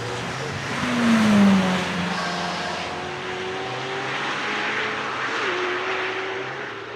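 McLaren Senna's twin-turbo V8 running at speed. Its note is loudest and falls in pitch about a second in, then holds fairly steady with small shifts in pitch.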